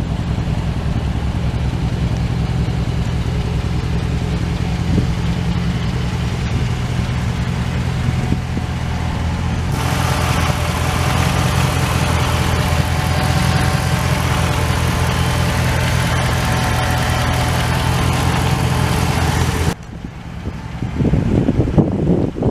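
A car engine running steadily. About ten seconds in, a higher rushing noise joins it. Near the end, the sound cuts off abruptly to a quieter, rougher noise.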